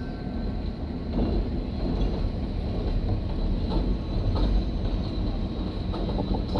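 Diesel-locomotive-hauled train crossing a steel railroad bridge: a steady low rumble with scattered knocks from the wheels on the bridge.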